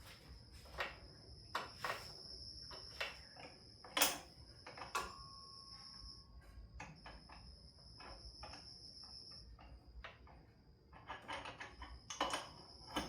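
Scattered sharp metallic clicks and knocks of hand tools on metal, the loudest about four seconds in. Under them runs a steady high-pitched insect trill, crickets by their sound, that pauses twice.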